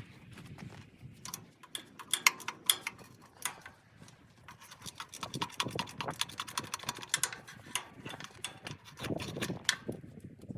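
Metal hand tools clinking and clicking irregularly, sockets and a socket wrench being handled and tried on the engine's fittings, with sharp metallic taps that ring briefly.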